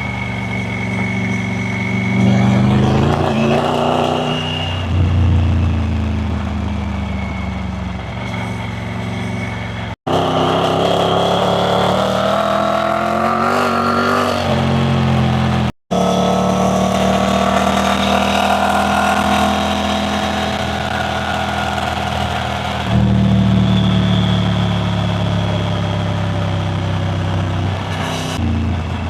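Triumph Tiger 900 Rally Pro's three-cylinder engine running on the move, its pitch rising and falling as the throttle opens and closes. The sound breaks off for an instant twice, around a third and about halfway through.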